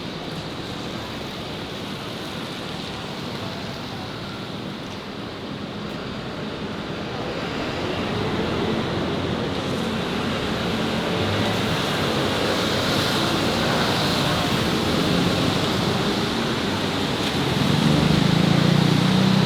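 City street traffic noise, a steady rush that grows louder about halfway through, with a vehicle engine passing close near the end.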